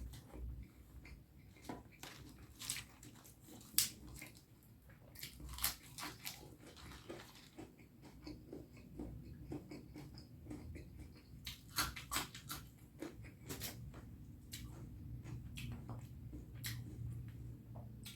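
Close-miked eating of curry and rice: chewing and wet mouth noises, with irregular sharp clicks and smacks scattered through.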